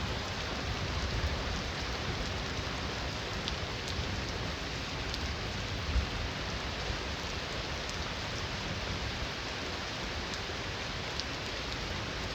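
Heavy rain falling steadily, with individual drops ticking. There is a brief low thump about halfway through.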